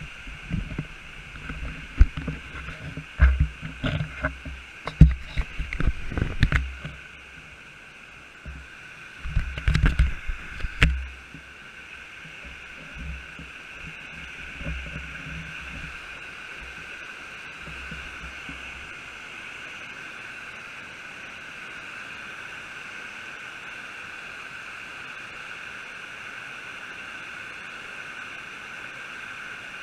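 Steady rushing of a creek and waterfall. Through the first ten seconds or so, irregular low thumps and knocks from the camera being handled and lowered; after that only the water.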